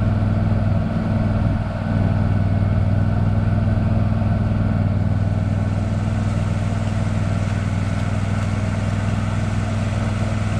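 An engine running steadily at a constant speed, with a low, even hum that does not change.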